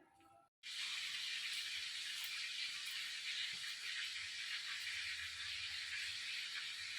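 Beef seekh kebabs frying in shallow oil, sizzling steadily; the sizzle cuts in sharply about half a second in.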